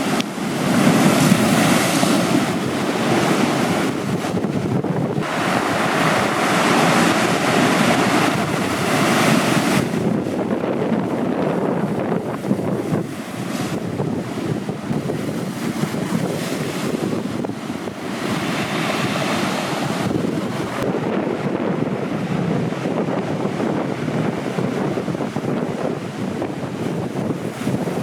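Heavy ocean surf breaking and washing ashore in surges several seconds long, the loudest in the first ten seconds. Wind buffets the microphone.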